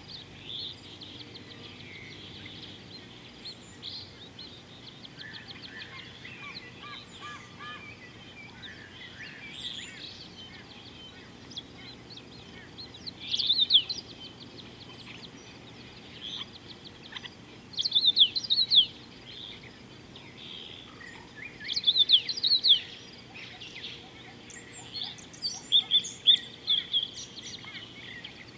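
Wild birds chirping and calling, softly at first, then in four loud bursts of quick, sharp chirps a few seconds apart in the second half, over a faint steady outdoor hiss.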